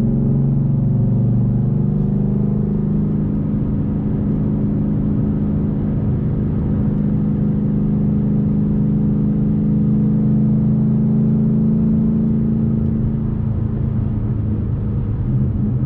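Ford Mustang GT's V8 engine running at steady revs while the car cruises, a constant low drone whose note shifts slightly near the end.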